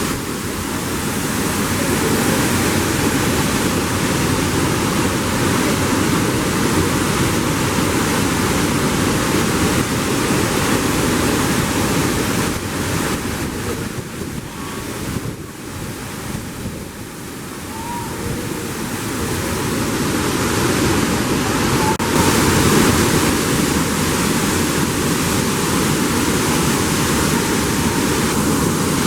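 Steady rush of a large waterfall. It dips quieter for a few seconds in the middle, then returns to full strength.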